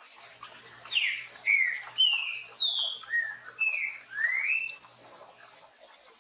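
Green-winged saltator (trinca-ferro) singing one phrase of its 'tio joão pedro boi' song: about seven loud, clear whistled notes, each a quick slur down or up in pitch, starting about a second in and ending near five seconds. Under it runs a steady faint hiss of rain.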